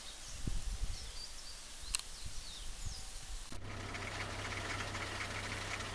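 Birds chirping over a low, gusty rumble of wind on the microphone. About three and a half seconds in the sound cuts abruptly to a steady hiss with a constant low hum.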